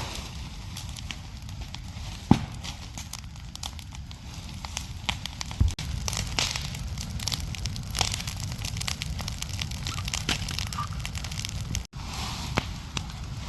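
Irregular crackling made of many sharp clicks over a steady low background noise.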